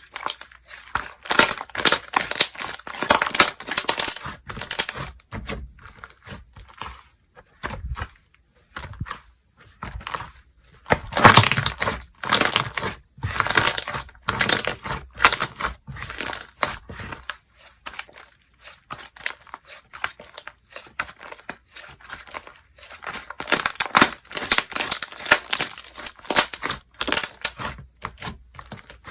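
Hands stretching, squeezing and poking slime, giving runs of crackling, popping clicks. Dense spells of play alternate with a couple of quieter pauses.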